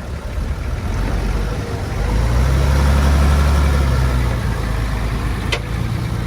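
Heavy-equipment diesel engine running, swelling louder for about two seconds in the middle as it comes under load, then easing back. A single sharp click near the end.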